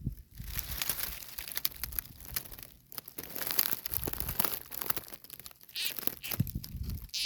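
Irregular crackling and rustling, dense with small clicks, like dry vegetation or debris being disturbed; there are two short, higher-pitched sounds near the end.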